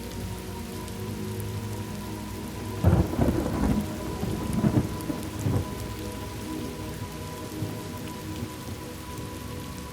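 Thunderstorm ambience: steady rain falling, with a clap of thunder about three seconds in that rumbles on in a few surges for about three seconds.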